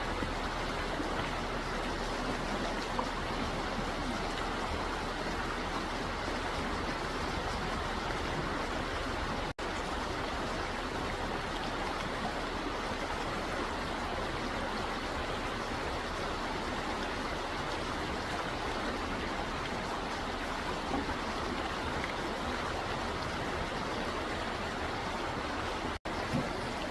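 Steady rushing of a stream's flowing water, with two brief dropouts, about ten seconds in and near the end.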